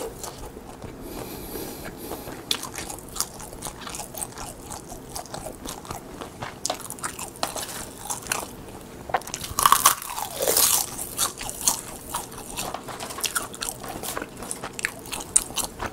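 Close-miked crunching and chewing of crisp roasted seasoned seaweed (gim), a quick run of sharp crackles, busiest about ten seconds in.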